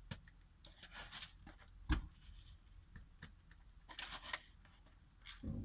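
Faint, short scratchy kitchen sounds as salt is added to the soup: a few scattered rasps, with a knock about two seconds in.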